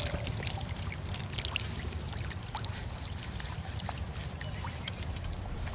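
Water sloshing and splashing, with scattered small clicks and splashes over a steady low rumble.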